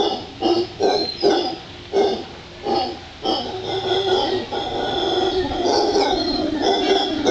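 Howler monkeys calling: short guttural calls repeated about twice a second, merging about three seconds in into a longer continuous howl.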